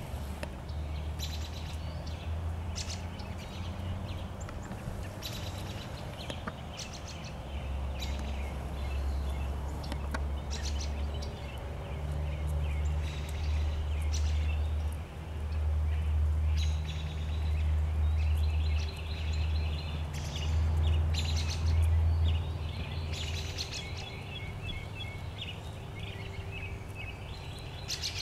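Small birds chirping and trilling on and off over a low, uneven rumble that grows louder in the middle.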